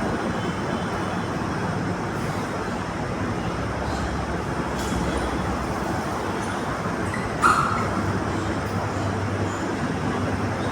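Steady road-traffic noise, a continuous rumble and hiss of passing or surrounding vehicles. A single brief, sharp clack cuts through about seven and a half seconds in.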